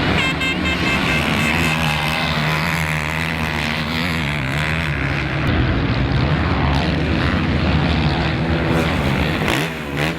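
Motocross motorcycles racing, several engines running hard at once and rising and falling in pitch as the riders work the throttle.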